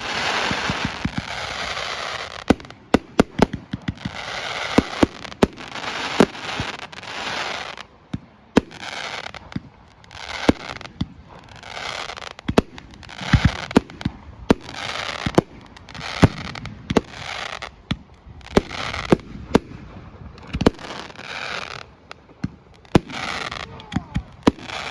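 Fireworks display: a rapid, irregular run of sharp bangs from bursting shells, with crackling, hissing bursts between them.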